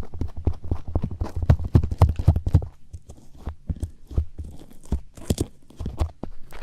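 Close-miked ASMR ear-cleaning sounds: rapid, irregular scratching and tapping right against the microphone, with a low rumble. Busy for the first two and a half seconds, then sparser, with another quick cluster of taps a little after five seconds.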